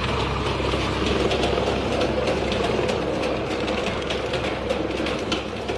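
Worm grunting: a steel bar rubbed across the top of a stake driven into the ground, giving a steady rasping drone with fast fine ticks that vibrates the soil to drive earthworms to the surface.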